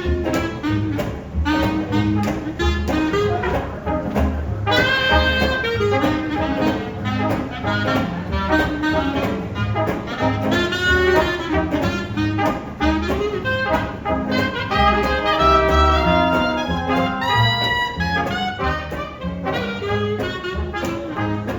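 Live New Orleans–style jazz band playing an instrumental passage: horns carry the melody over bass and a steady drum beat.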